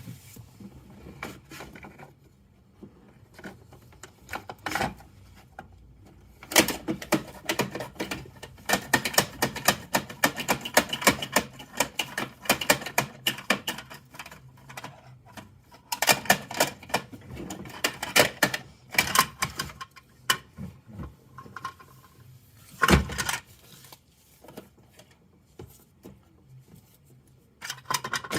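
Plastic toy garbage truck being worked by hand: rapid runs of clicking and rattling, with a single heavier knock about 23 seconds in.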